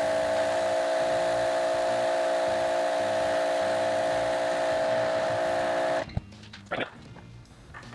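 Husqvarna 2000 PSI electric pressure washer running with the trigger held, its motor and pump humming steadily under a hiss of water spraying into a bucket for a flow test. It cuts off suddenly about six seconds in when the trigger is released, followed by a click.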